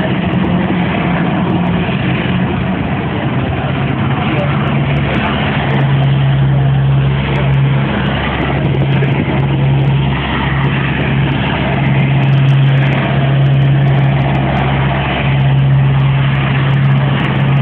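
Aircraft engine running steadily, a constant loud rush with a low hum under it that drops in pitch two or three seconds in and then holds.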